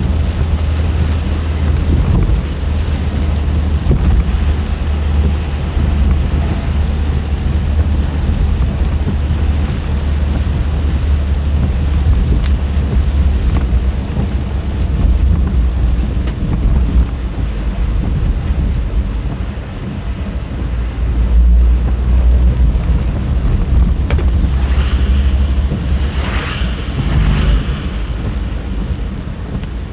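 Car driving on wet roads in a typhoon rainstorm: a steady low road-and-engine rumble with the hiss of rain and wind. A few seconds before the end there is a brief, louder hissing rush.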